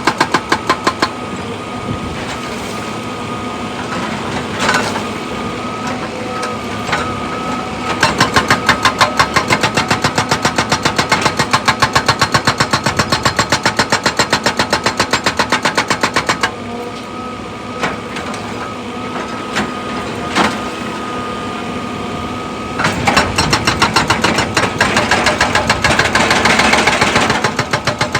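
Heavy diesel machinery running steadily, with bouts of rapid, evenly spaced pounding at several strokes a second that start and stop: once at the start, for about eight seconds in the middle, and again near the end.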